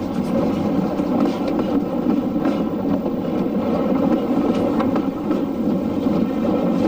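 A heritage railway train running along the line, giving a steady rumble with a few faint clicks.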